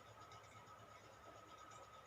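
Near silence: faint room tone with a thin, steady high hum.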